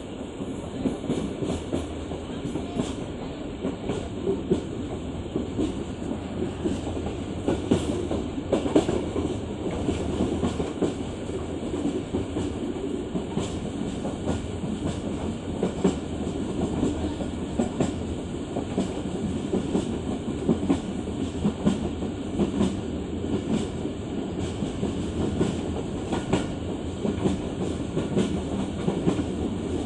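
Moving passenger train running along the track: a steady rumble with rapid, irregular clicks and clatter from the wheels over the rails.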